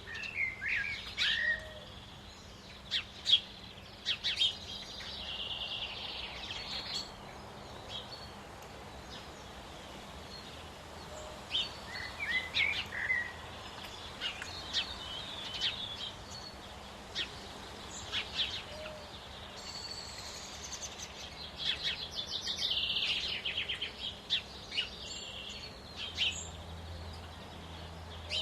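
Small songbirds singing and calling: scattered high chirps and short warbled phrases, with a fast trill a little past the middle, over a steady background hiss.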